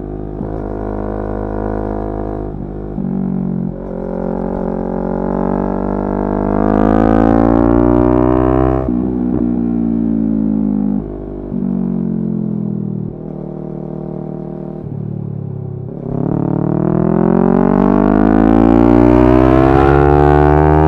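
Yamaha R3's 321 cc parallel-twin engine pulling through the gears: its pitch climbs steadily and then drops sharply at each upshift, with several shifts, a long climb in the middle and another long rising pull near the end.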